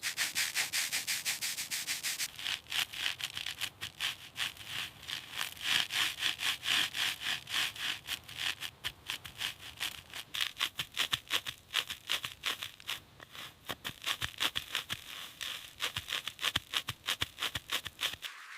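Rapid rhythmic rubbing strokes, several a second, changing in tone about two seconds in and stopping abruptly near the end.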